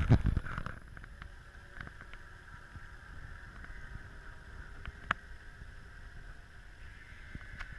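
Radio-controlled model boat running on the water, its electric motor giving a steady, faint high whine. A low rumble sounds in the first second and a sharp click about five seconds in.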